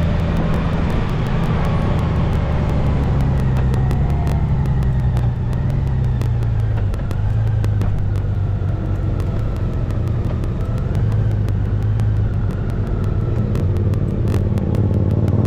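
Honda Gold Wing F6B's flat-six engine running while the motorcycle is ridden, its low note shifting in pitch as the speed changes.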